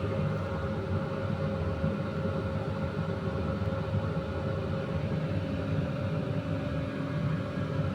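A steady low mechanical hum with a constant tone running through it, as of a motor or fan running.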